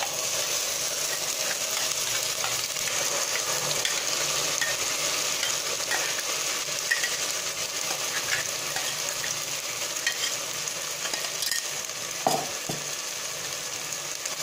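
Ground fried-onion paste sizzling steadily in hot oil in a non-stick pan, with a few light knocks as a spatula stirs it.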